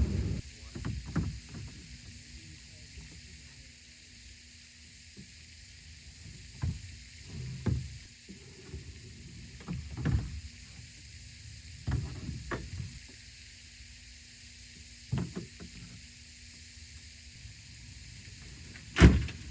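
Scattered knocks and clunks of equipment being handled and packed away, a few seconds apart, with one sharp, loud knock near the end.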